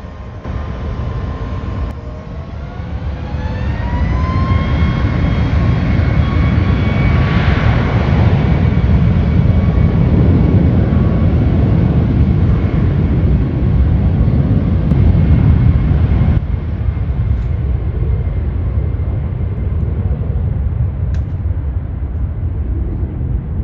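Jet airliner's engines spooling up with a rising whine into a loud, steady rumble at takeoff power. About sixteen seconds in the level drops suddenly, leaving a lower rumble.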